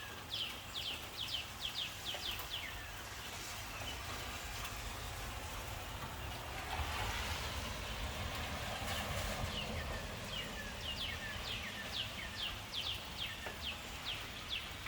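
A songbird sings rapid runs of quick, falling chirps, once at the start and again later, over a steady hiss of rain. Midway there is a swell of broader rushing noise.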